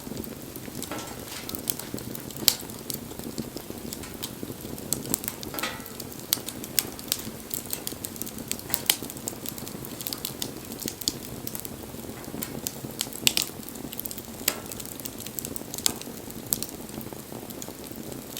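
Wood bonfire burning: a steady low hiss of the flames with sharp crackles and pops coming at irregular intervals.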